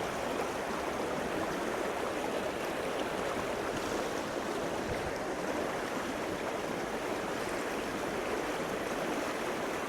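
Small stream flowing over rocks: a steady rush of running water.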